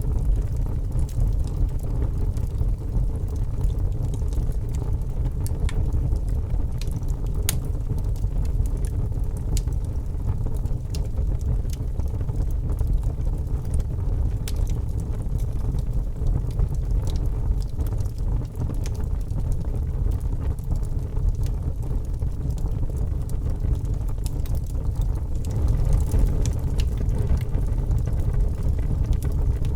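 Wood fire burning in a fireplace: a steady low rumble with scattered sharp crackles and pops, one louder pop about seven seconds in.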